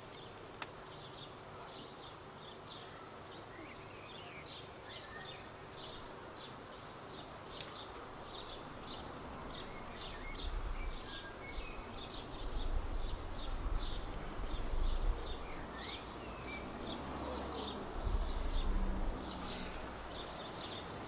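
Small birds chirping in the background, short high chirps repeating over and over, with a low rumble that swells in from about halfway through.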